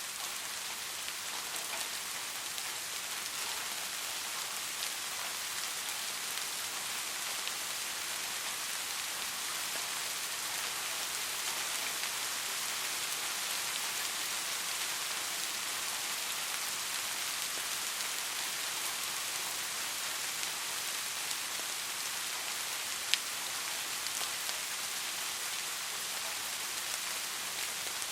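Steady rain falling, an even hiss of many drops. One sharp, louder drop click stands out once, late on.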